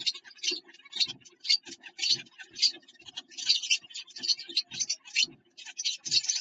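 A finch inside a wooden nest box rustling and scratching at its nesting material, in short quick bursts about twice a second, some with a soft knock against the wood.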